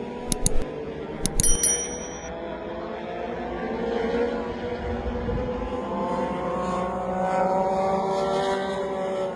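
Racing motorcycle engines running at high revs, their pitch climbing slowly over several seconds as they accelerate. Two quick groups of sharp clicks with a short ringing tone come in the first two seconds.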